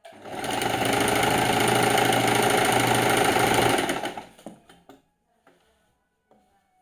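Electric sewing machine running at stitching speed with a fast, even rhythm for about four seconds, then stopping, followed by a few faint clicks.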